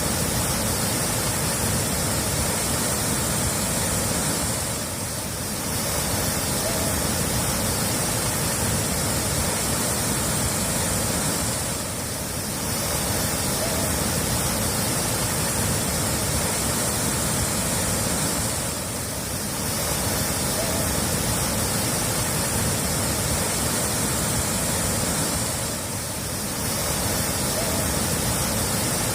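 Steady rushing water, an even hiss-like rush that dips slightly about every seven seconds.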